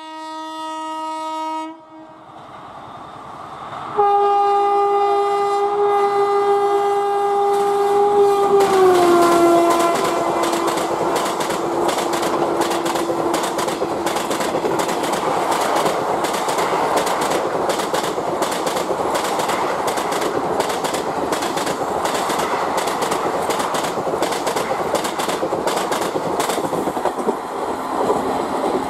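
Indian Railways electric locomotive's horn: a short blast, then a long one that drops in pitch as the locomotive rushes past. Then the steady noise of a long passenger express passing at about 110 km/h, with a rapid clickety-clack of coach wheels over the rail joints.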